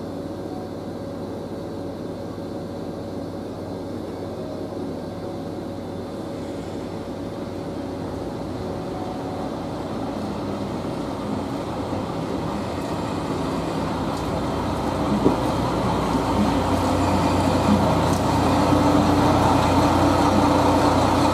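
A Kyoto Tango Railway diesel railcar pulling in to the platform, its running sound growing steadily louder as it draws near. The engine's low drone is heaviest in the last several seconds as the car rolls alongside, with a couple of small knocks.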